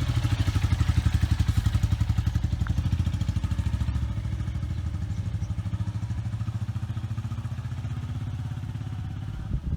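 An engine running steadily with fast, even firing pulses, slowly getting quieter over the last several seconds.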